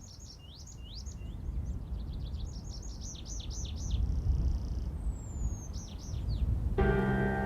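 A songbird singing quick runs of high chirping, sweeping notes over a low steady rumble; soft music with held notes comes in near the end.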